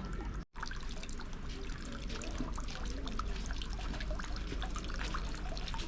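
Water trickling and dripping steadily, with many small splashes, after a brief break in the sound about half a second in.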